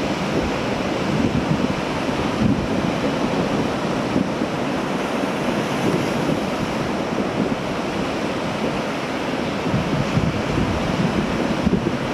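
Sea waves washing steadily, with wind buffeting the microphone in an uneven low rumble.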